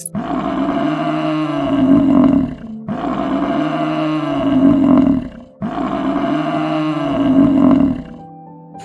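A large animal's long, deep call, given three times in a row, each about two and a half seconds long and rising then falling in pitch.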